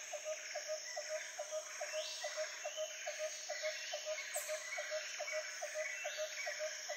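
Tropical forest chorus of insects: a steady high buzz with a rasping swell about every two seconds, over an animal repeating a short note about four times a second.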